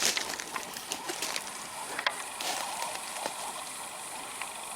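Scattered light clicks and rustles, irregular and a second or so apart, over a steady high hiss of outdoor background noise.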